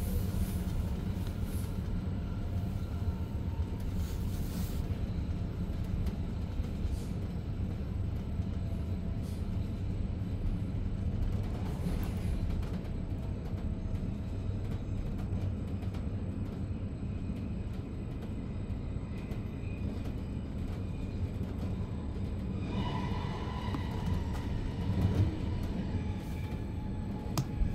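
Steady rolling rumble heard inside a coach of a Zürich S-Bahn DPZ double-deck push-pull train with an Re 450 locomotive, running at speed. A higher tone joins in about five seconds before the end.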